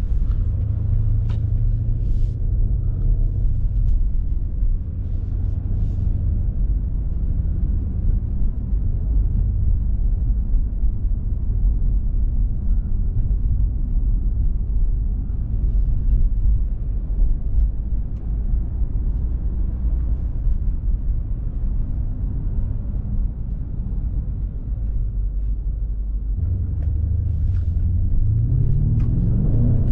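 BMW M5 Competition's 4.4-litre twin-turbo V8 running at low revs while driving, a steady low rumble. Near the end the engine note climbs steeply as the revs rise.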